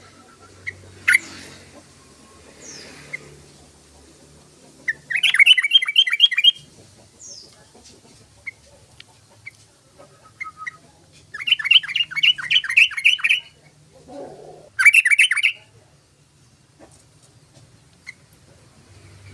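Yellow-vented bulbul (trucukan) singing: three bursts of fast, evenly repeated chattering notes, the middle one the longest, with a few short single notes between them.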